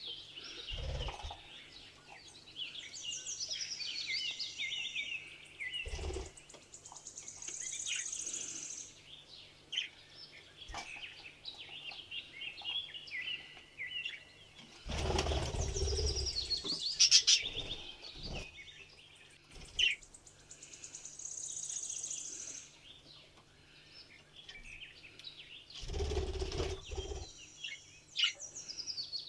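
Budgerigars chirping and warbling continuously in quick, high twittering phrases. Several louder rustling bursts break in, the longest about halfway through.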